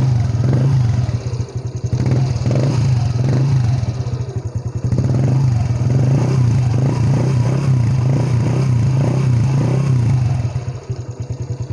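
Honda EX5 FI's 110 cc single-cylinder four-stroke engine running through a newly fitted cut standard exhaust, the throttle blipped over and over so the pitch rises and falls. It settles back toward idle near the end.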